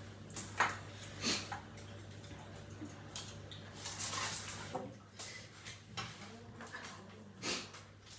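Eating sounds: chewing, with a few short, light clicks of cutlery on dishes.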